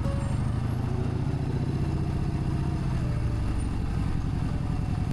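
Yamaha Bolt XV950's air-cooled V-twin engine running steadily on the move, with a low, even pulsing exhaust note.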